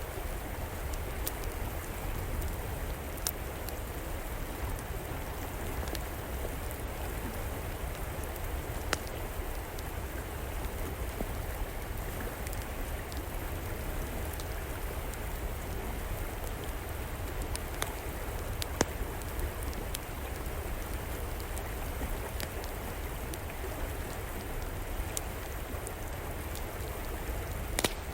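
River water flowing steadily, with a fire in an outdoor fireplace crackling over it and a few sharper pops scattered through.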